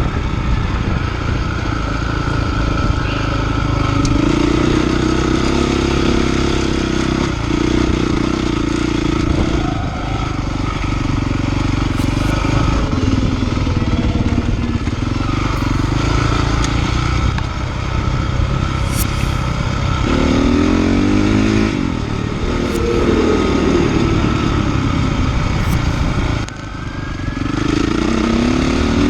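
Honda CRF450R dirt bike's four-stroke single-cylinder engine running under way, its revs climbing and falling repeatedly with the throttle, with a brief let-off a few seconds before the end.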